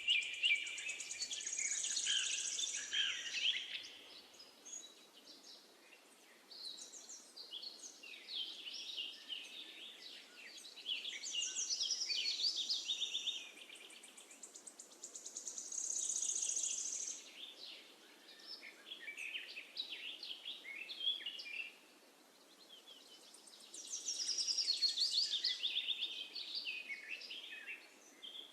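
Songbirds singing in bouts of rapid chirps and trills a few seconds long, with short pauses between them, over a faint steady background hiss.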